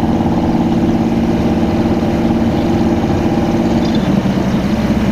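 Harley-Davidson Ultra Classic's V-twin engine running steadily under the rider at low city speed, with a slight change in pitch about four seconds in.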